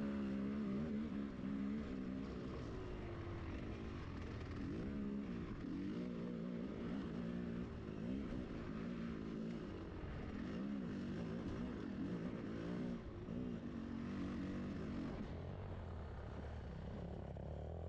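Enduro motorcycle engine running while the bike is ridden, its revs rising and falling over and over every second or two.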